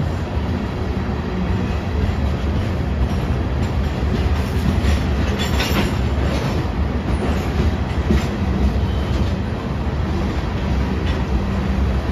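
Covered hopper cars of a freight train rolling past on the rails: a steady low rumble of wheels on track, with a few brief high-pitched squeals about five to eight seconds in.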